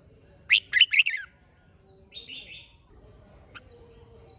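Red-whiskered bulbul singing: a loud, quick phrase of a few sweeping notes about half a second in, followed by softer chirps and short whistles.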